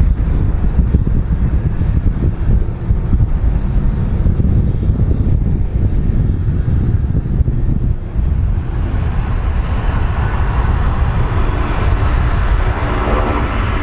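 Large aircraft's engines, a loud low rumble. About two-thirds of the way in, a rushing engine noise grows louder over it, with a steady whine near the end.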